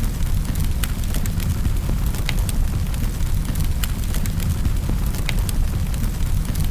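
Wood fire crackling in a fireplace: a steady low rumble of burning with sharp, irregular pops and snaps about once or twice a second.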